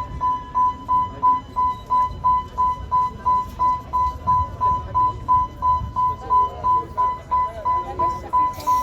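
Level-crossing warning signal beeping: a single high electronic tone repeating evenly about three to four times a second, warning of a passing train. A low rumble runs underneath.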